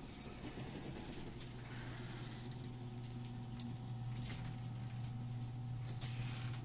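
Garage door opener running and moving the door: a steady low motor hum that settles in about a second and a half in, with scattered clicks from the door and drive.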